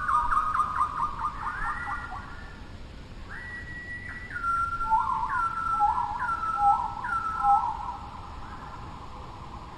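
A songbird singing clear whistled notes. A quick run of notes opens, then a long held note, then a two-note phrase repeated about four times, roughly once a second: a held falling note followed by a short rising one.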